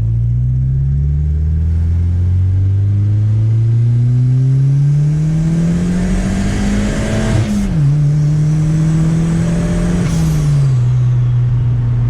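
Turbocharged Chevrolet Chevette engine pulling hard under acceleration, its revs climbing steadily for about seven seconds. The revs drop sharply at an upshift, with a rushing hiss, then climb again and drop at a second upshift, after which it runs steadily.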